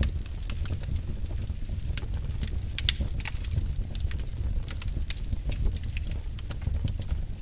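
Wood fire burning in a fireplace: a low rumble of flames with frequent sharp crackles and pops at irregular intervals.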